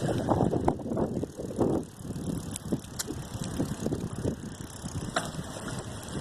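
Wind buffeting the microphone on a bicycle ride, an uneven gusting rumble, with a few sharp clicks.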